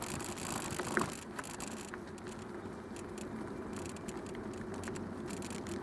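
Bicycle being ridden along a street: steady tyre noise with light rattling from the bike, and a small click about a second in.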